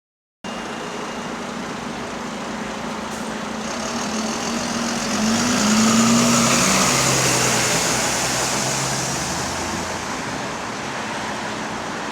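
Bus engine and road noise, with the engine pitch rising as the bus accelerates about halfway through, then easing off again.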